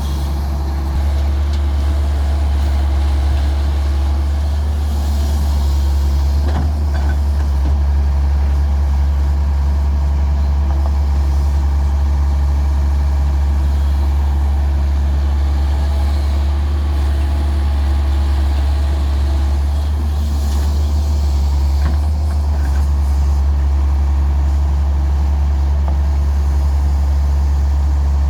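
Diesel engine of a Daewoo 170W3 wheeled excavator running steadily with a deep low hum while it loads mud into a truck. Short knocks come twice.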